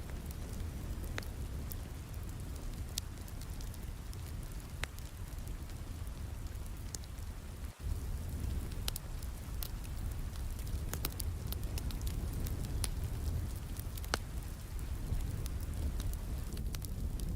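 Steady rain with a crackling fireplace: a dense low rain hiss dotted with scattered sharp pops and snaps from the burning wood. The sound dips for an instant about eight seconds in.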